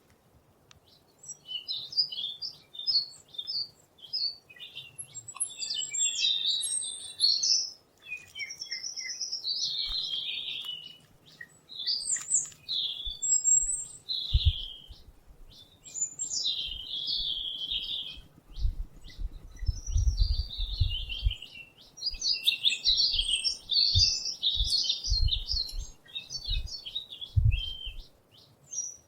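Small songbirds chirping and singing almost without a break, several calls and warbling phrases overlapping, with scattered low thumps through the second half.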